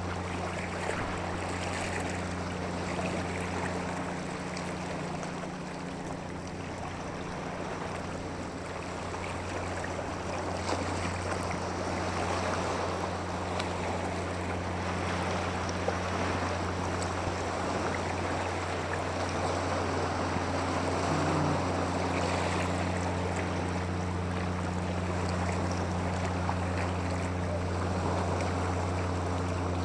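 Water rushing steadily, over a constant low hum.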